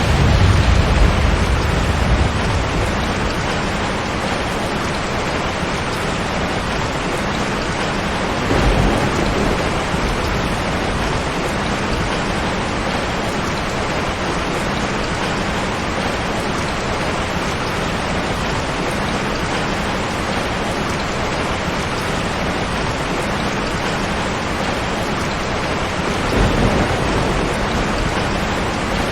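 Steady heavy rain falling in a rainstorm. Low thunder rumbles come at the start, again about nine seconds in, and once more near the end.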